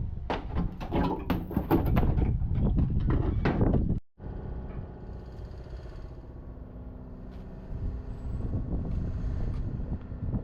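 Dense metallic clatter of sharp knocks in a workshop for about four seconds, then after a sudden cut a steady machine drone with an even hum.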